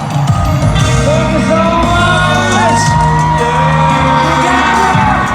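Loud music with singing fills a stadium while a large crowd screams and whoops over it, many high voices rising and falling at once.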